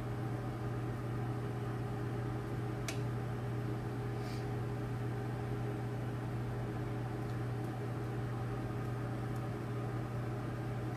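Microwave oven running with a steady hum, with a couple of faint light ticks about three and four seconds in.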